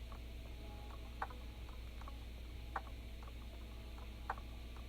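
Quiet, regular ticking: a sharper tick about every second and a half with fainter ticks between, over a steady low hum.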